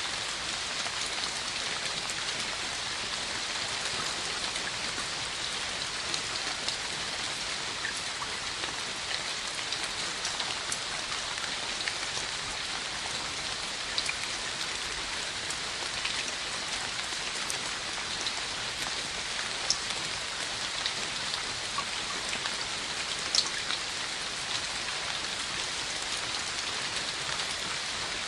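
Steady rain falling, an even hiss with scattered individual drops ticking louder now and then.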